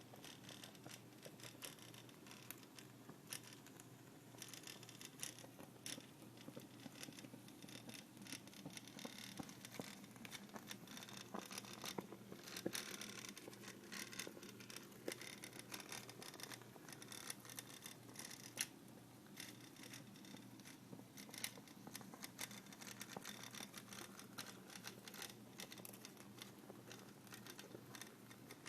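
Coil-type putt-putt steam engine running on a small toy boat, its pulses rattling pieces of aluminium can into a faint, fast, irregular crackle of ticks over a low steady hum.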